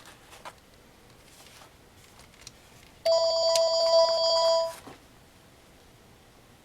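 A steady electronic ringing tone made of several fixed pitches, lasting about a second and a half and starting about three seconds in, then cutting off. A couple of faint clicks come near the start.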